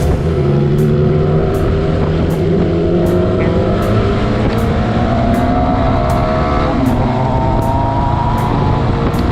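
Motorcycle engine running while riding, its pitch climbing gradually as the revs rise.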